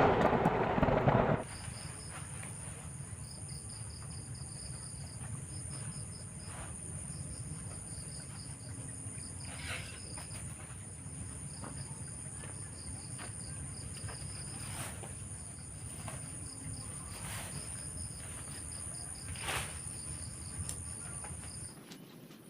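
Night insects, crickets among them, chirping: a steady high trill with a rapidly pulsing chirp beneath it, over a low rumble and a few faint clicks. A loud noisy burst cuts off about a second and a half in, and the insect sound stops abruptly near the end.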